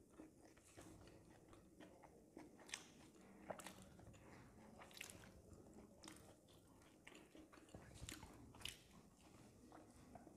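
Faint chewing and biting as momo dumplings are eaten, with irregular soft mouth clicks and smacks.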